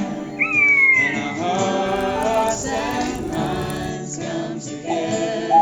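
Song with a group of voices singing held notes without words. About half a second in, a high note slides down in pitch.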